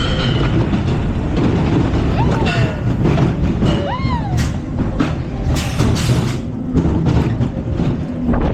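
Funfair ride machinery rumbling and clattering, with two short rising-then-falling squeals about two and four seconds in.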